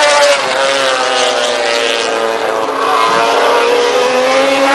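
MotoGP racing motorcycle engine running at high revs, its note sagging slowly and then climbing again near the end.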